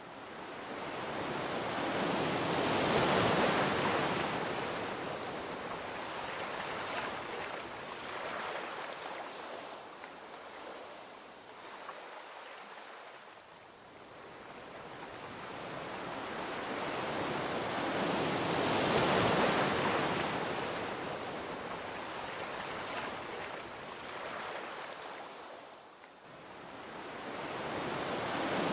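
Gentle ocean waves washing onto a beach: a soft rushing hiss that swells and fades in slow cycles, with two main surges, about 3 and 19 seconds in.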